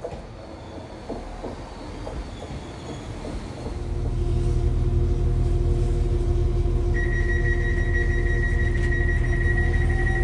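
A diesel train at the station: wheel clicks and squeals on the rails, then about four seconds in the engine sets up a loud, steady rumble with a hum in it. A high steady tone joins a few seconds before the end.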